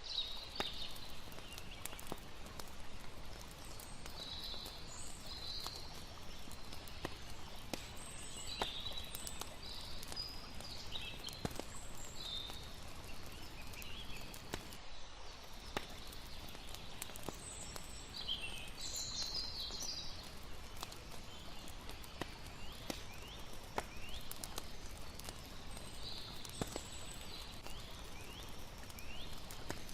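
Layered night ambience: a campfire crackling with frequent sharp pops, over a steady wash of flowing water, with scattered high chirping calls from crickets and birds.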